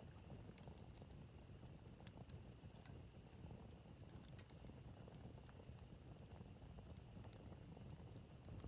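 Wood campfire burning, faint, with scattered small crackles and pops over a low rumble.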